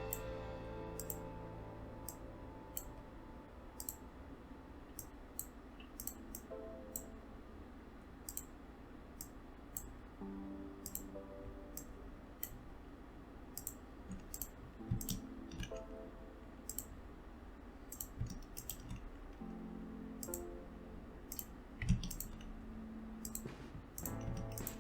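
Computer mouse clicking irregularly, about one or two clicks a second, over soft background music.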